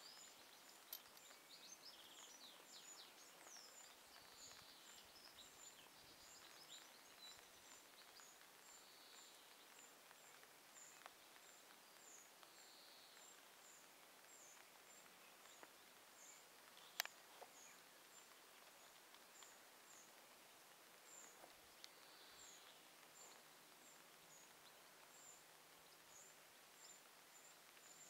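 Faint outdoor garden ambience with small birds chirping: a thin, high note repeated about twice a second, and a few short song phrases, most of them in the first few seconds. A single sharp click about 17 seconds in.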